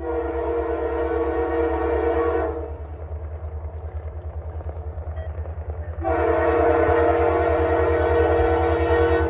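Diesel locomotive air horn on the lead unit of the CPKC Holiday Train sounding two long blasts: one at the start lasting about two and a half seconds, and a second starting about six seconds in that is still sounding at the end. A steady low, pulsing rumble runs underneath.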